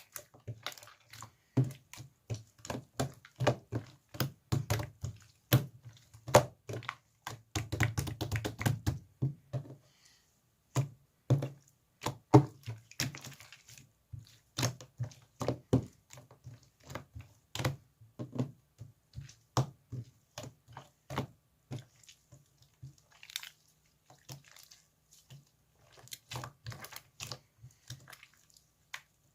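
Pink marbled slime being pressed and poked by hand, giving a quick irregular run of sticky clicks, pops and soft thuds. The clicks come thickest in the first ten seconds or so and thin out after that.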